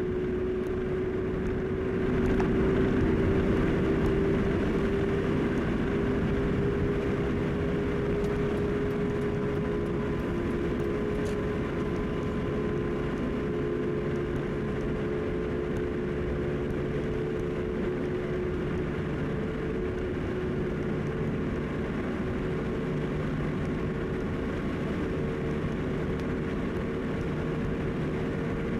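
Car driving at highway speed: a steady engine drone with road and tyre noise, and a hum whose pitch creeps slowly upward.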